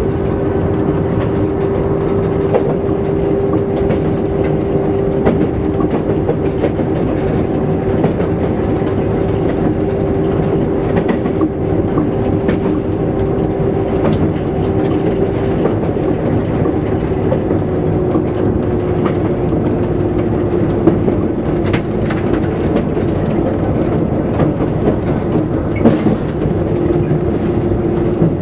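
Train running along the track, heard from the front cab: a steady running noise with a steady hum that drops slightly in pitch about halfway through, and occasional clicks of the wheels over rail joints.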